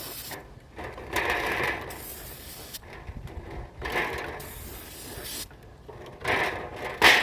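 Aerosol spray-paint can spraying in several short bursts of hiss, the loudest near the end.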